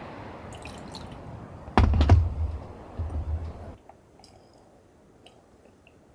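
Steady rain hiss with low wind buffeting on the microphone and a few sharp knocks about two seconds in. Just before the four-second mark the rain noise cuts off abruptly, leaving a quiet background with a few faint small clicks.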